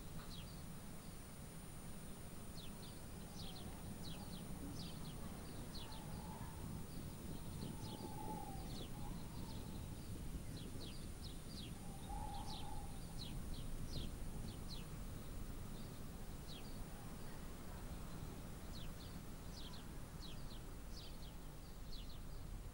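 Small birds chirping outdoors, many short high chirps repeated on and off, over a steady low background rumble.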